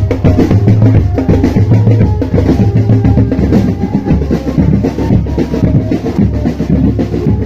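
Marching drum band playing: fast snare drum rolls and strikes over heavy bass drum beats, with a few held melodic notes above the percussion.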